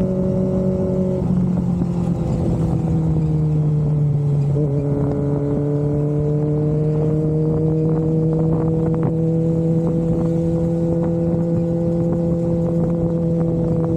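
Kawasaki Ninja ZX-25R's 250 cc inline-four running through an Austinracing aftermarket exhaust at steady revs. The pitch eases down over the first few seconds and dips briefly about four and a half seconds in, then holds nearly level.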